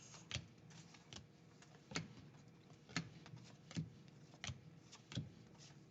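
Trading cards being flipped through one at a time, each card giving a faint, short click or slap about once a second.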